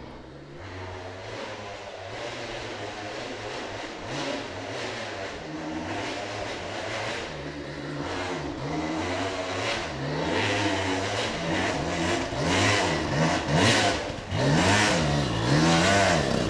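Two-stroke dirt bike engine revving up and down on the throttle, getting steadily louder; in the second half the revs rise and fall more quickly, a few times a second.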